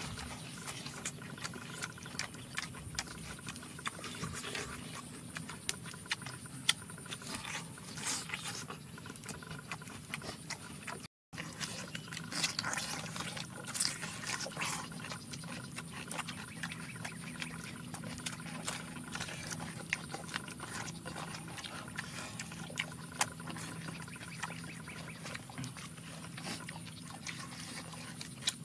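Two people eating close to the microphone: chewing pork skin and crisp cucumber and lettuce, with many small wet clicks and lip smacks. The sound cuts out briefly about eleven seconds in.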